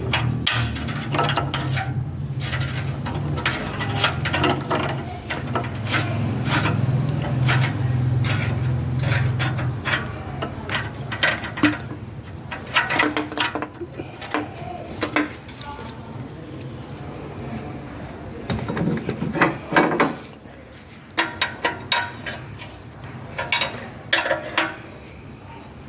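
Metal parts and tools clinking and knocking as they are handled, in scattered short strikes. A low steady hum lies under it and fades out about ten seconds in.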